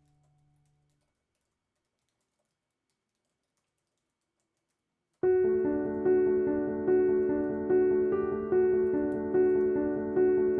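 Dead silence for about five seconds, then background piano music starts suddenly: a chord struck about every 0.8 seconds, each one fading before the next.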